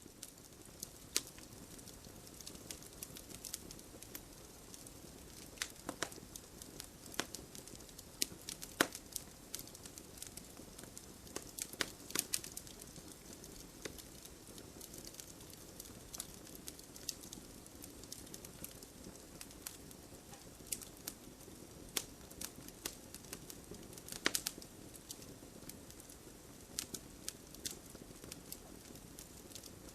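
Fire burning in a fireplace, crackling with irregular sharp pops and snaps over a soft steady hiss of the flames.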